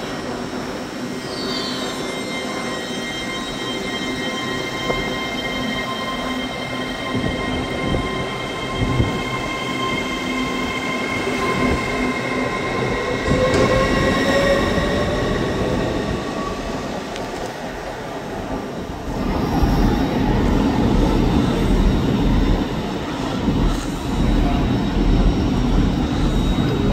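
Passenger train moving out along the platform, its drive giving a high whine of several tones that drift in pitch, with a short rising tone about 14 seconds in. From about 19 seconds a louder, deeper rumble takes over as a second train, a blue Hull Trains Class 802, comes in toward the platform.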